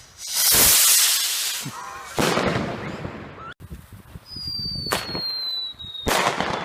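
Fireworks going off: loud hissing, crackling bursts, a sharp crack, and one long whistle that falls slowly in pitch from about four to six seconds in.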